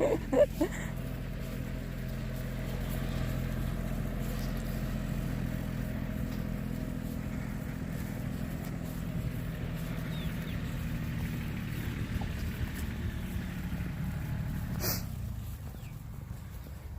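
An engine running steadily at a low, even pitch, with a single sharp click about fifteen seconds in, after which the engine sound drops a little.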